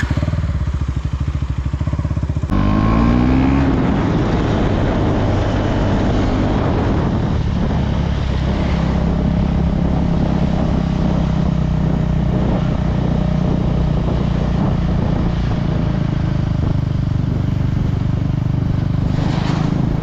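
KTM Duke 390's single-cylinder engine running under way. A few seconds in, the revs climb in a quick rising pull, then the engine holds a steady pitch.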